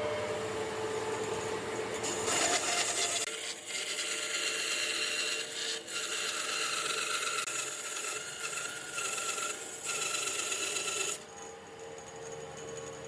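A power tool working wood: a steady motor whine over a rough, rasping abrasion noise. It grows louder about two seconds in and drops back near the end.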